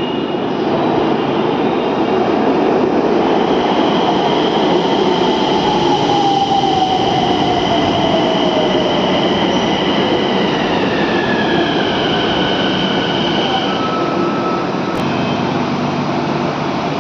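Nagpur Metro train running on the line: a steady rumble with whining tones, some of which slide down in pitch midway through.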